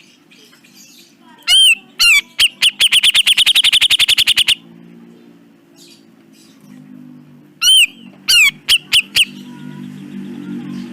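Grey-cheeked bulbul (cucak jenggot) calling: loud, harsh arched notes, two single ones, then a fast rattling run of about ten notes a second for about two seconds, and a few more spaced notes later. A low steady hum runs underneath.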